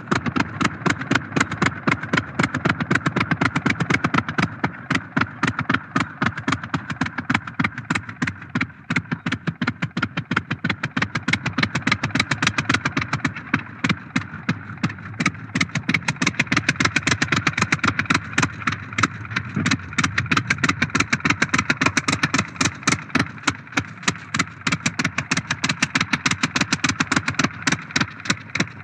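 Engine of a vintage Blériot single-propeller airplane taxiing around, a rapid, even firing beat that swells and fades as the plane moves about.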